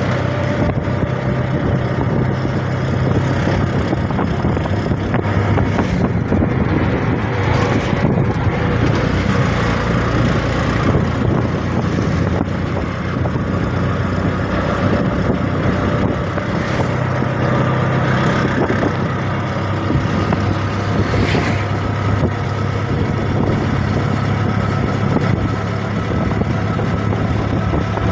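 CNG auto-rickshaw's small engine running steadily while riding, with road and wind noise, heard from on board.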